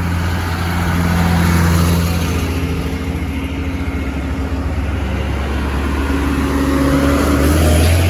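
Modern diesel tractors driving past, their engines running steadily. The sound swells twice, about two seconds in and again near the end, as tractors go by.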